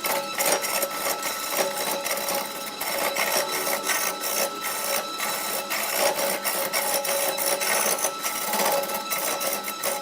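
A woodworking machine running with a dense, rapid clatter over a steady high whine.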